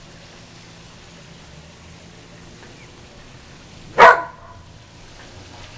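A whippet gives a single sharp bark about four seconds in, alarm barking at the Goodyear blimp passing overhead.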